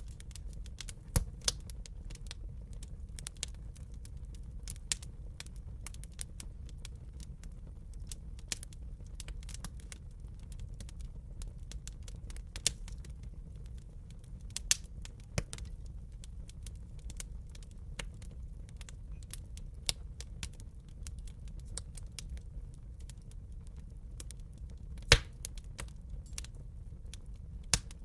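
Wood fire in a fireplace crackling: irregular sharp pops over a steady low rumble of the flames, with the loudest pop near the end.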